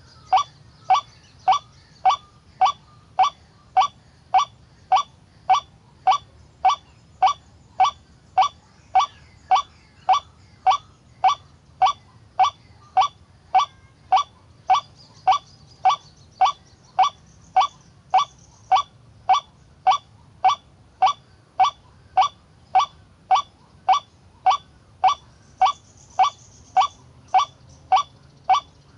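White-breasted waterhen (kareo) call: one short, harsh note repeated at a perfectly even pace, about one and a half times a second, without a break. The exact sameness of every note points to a looped recording used as a trapping lure.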